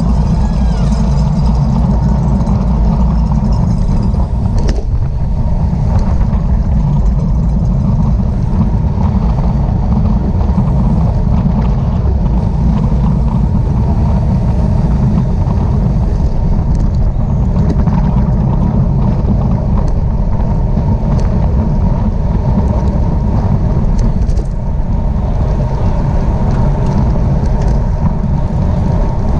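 Wind buffeting the microphone of a camera moving at bicycle-race speed: a loud, steady, low rumble that does not let up.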